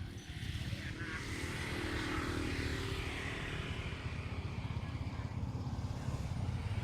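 A motor vehicle engine running steadily, getting louder about a second in.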